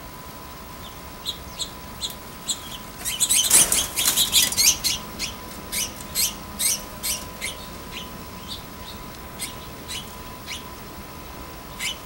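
Small songbird chirping: a quick run of short, sharp, high chirps about three seconds in, thinning to scattered single chirps after that. A faint steady whine runs underneath.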